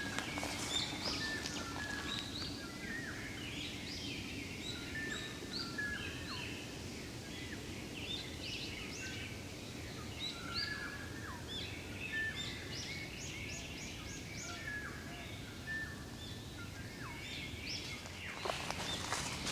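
Several wild songbirds chirping and calling, many short high notes overlapping, over a steady low background hiss and rumble. A few rustling clicks near the end.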